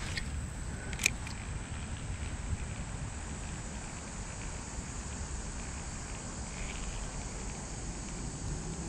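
Steady outdoor background noise, mostly low rumble, with a thin steady high-pitched tone and a single sharp click about a second in.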